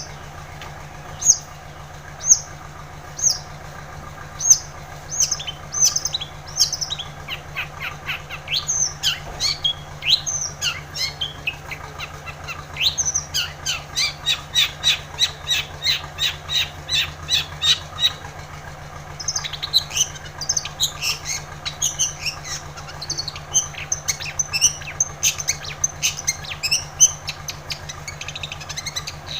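Long-tailed shrike (cendet) singing: a few sharp high chirps about a second apart, then fast, dense runs of chirps and harsh notes, with a short pause about two-thirds of the way through. A steady low hum runs underneath.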